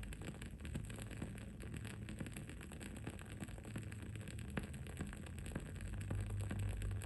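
Wood-wick candle flame crackling: irregular small pops and ticks, a slightly louder one about halfway through, over a steady low hum of background noise.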